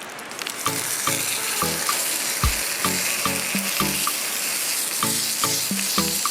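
Food sizzling as it fries in a pan, a steady hiss that starts about half a second in, under background music with a steady beat.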